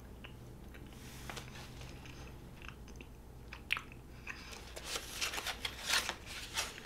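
A person chewing a piece of soft rose hip fudge with quiet mouth clicks and smacks, sparse at first and coming thicker and louder over the last three seconds.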